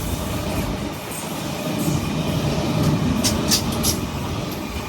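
A Sydney Trains Oscar (H-set) electric passenger train passing along the platform: a steady rumble of wheels and motors, with a few sharp high clicks about three seconds in.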